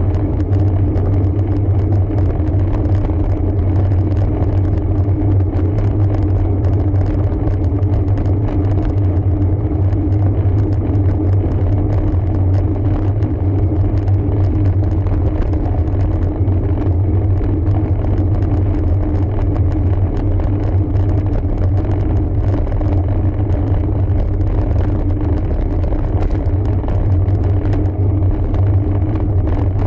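Riding noise from a road bike climbing a forest road: a steady low rumble of tyres and wind that holds unchanged throughout.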